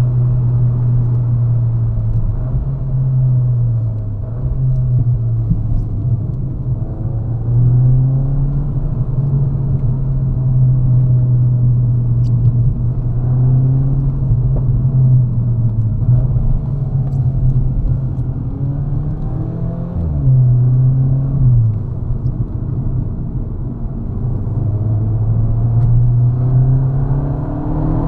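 Cupra Leon VZ's turbocharged 2.0 TSI four-cylinder engine under way, heard from inside the cabin: a steady engine drone that climbs and drops back in pitch several times as the throttle and gears change.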